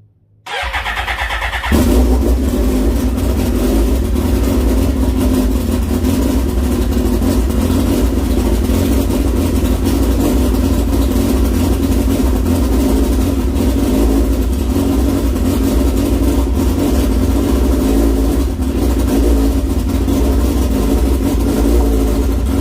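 Cold start of a straight-piped Suzuki GSX-R1000 with an aftermarket cam: about half a second in, the electric starter cranks the inline-four for roughly a second, then it catches and settles into a loud, steady idle.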